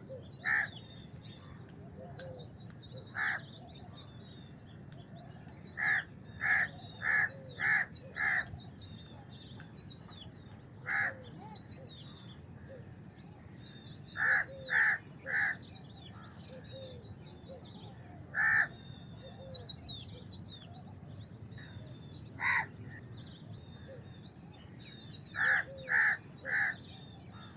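House crow cawing: short harsh calls, some single and some in quick runs of three to five, about sixteen in all. Small birds chirp steadily underneath.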